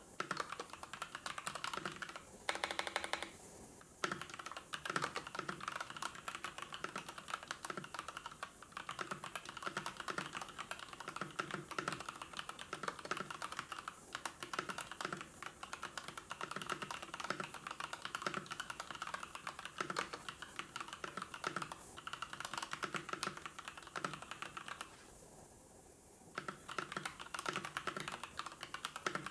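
Rapid typing on a computer keyboard: a dense, steady run of keystrokes that stops briefly about 25 seconds in, then resumes.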